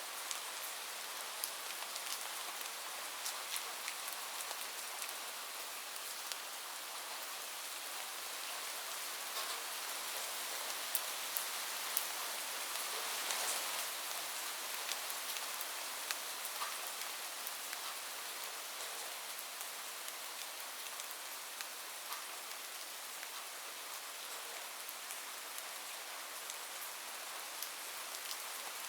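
Heavy rain falling on a roof: a steady hiss scattered with sharp drop ticks, swelling slightly about halfway through.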